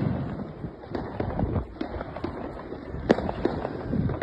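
Fireworks going off: a scatter of sharp bangs and crackles at varying distances, with the rumble of a bigger bang fading at the start and the loudest bang about three seconds in.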